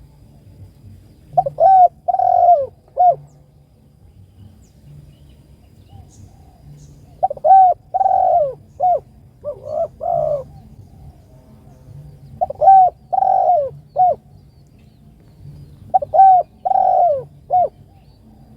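Spotted dove (tekukur) cooing its three-note call: a short coo, a longer coo, then a short coo. The call comes four times, about every five seconds, with two extra coos after the second call.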